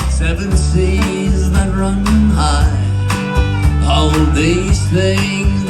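Country band playing a slow ballad: bass and drums keep a steady beat under acoustic guitar, with pedal steel guitar and fiddle carrying sliding melody lines.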